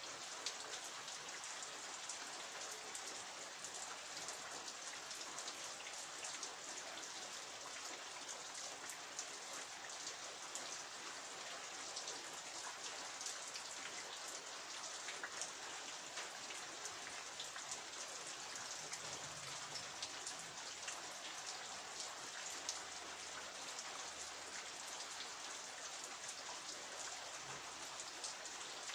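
Steady rain falling, with a dense, even hiss and many separate sharp drop hits on a surface.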